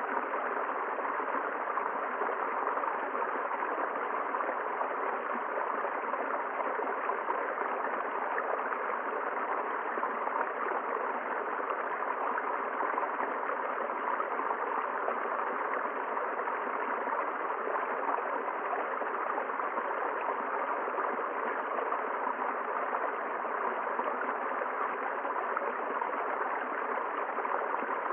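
River water running steadily over rocks, an even, unbroken rush.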